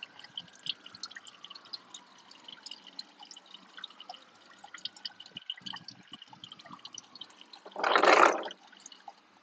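Used engine oil dripping and trickling from the drain hole into a drain pan: a scatter of small irregular drips as the drain nears its end. About eight seconds in there is a short, louder whoosh.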